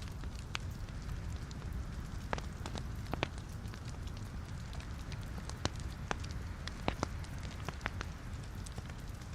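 Logs burning in a fireplace: a steady low rumble of flame with irregular sharp crackles and pops of the wood, several louder snaps scattered through.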